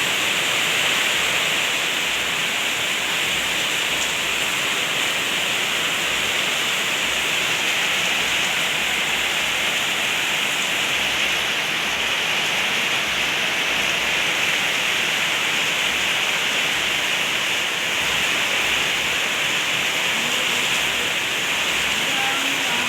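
Heavy rain falling steadily, a constant even hiss with no letup.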